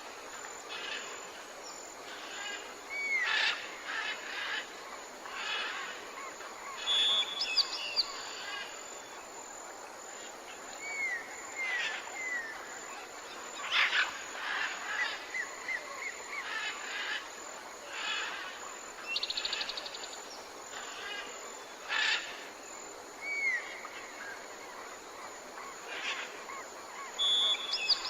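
Several songbirds calling and singing: a busy mix of short chirps, brief trills and small falling whistles, with one bird or another calling every second or so.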